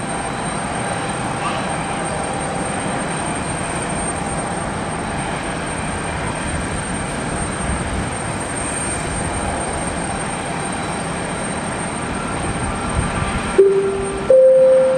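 Steady rushing background noise, then near the end an airport public-address chime: two rising notes, the opening of a terminal announcement.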